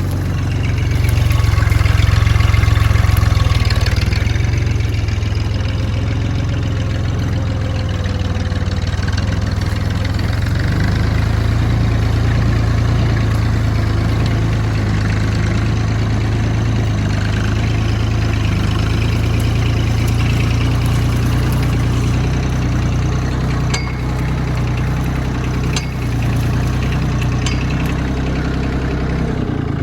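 Tractor engine running steadily with a deep, even hum, briefly louder a couple of seconds in. A few sharp clicks come near the end.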